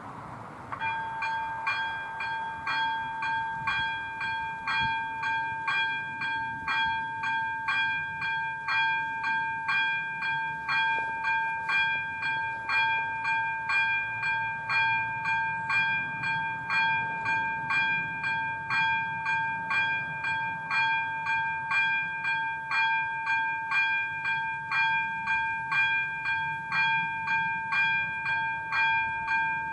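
A Czech level-crossing warning bell (AŽD ZV02 electronic bell) starts about a second in and keeps ringing with evenly spaced, repeating dings over a steady ringing tone. This signals that the crossing has been activated for an approaching train.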